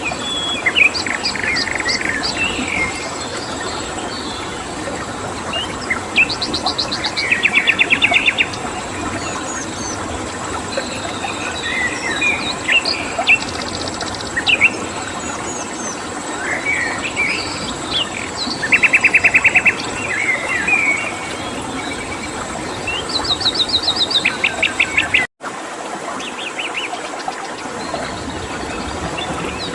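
Wild birds singing, with scattered chirps and several fast trills of evenly repeated notes, over a constant high cricket tone and a steady hiss of flowing water. The whole sound cuts out for an instant about 25 seconds in.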